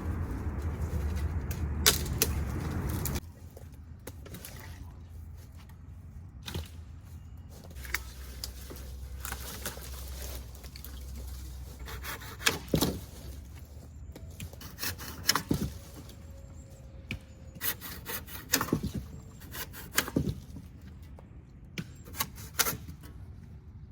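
Dead branches being snapped and cracked by hand while gathering firewood, with rustling steps through forest litter between them: a dozen or so sharp cracks spread irregularly. A loud rushing noise fills the first three seconds and then cuts off suddenly.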